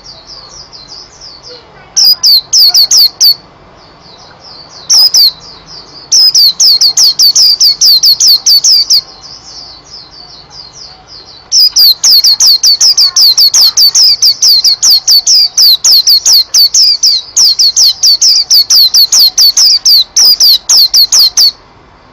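Domestic canary singing: long runs of loud, rapid repeated high notes (rolls) broken by short pauses, with softer twittering in between.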